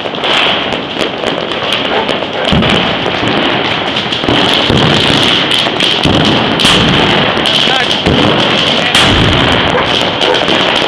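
Dense New Year's street fireworks and firecrackers going off without a break, a rapid crackle of bangs with heavier booms about four times.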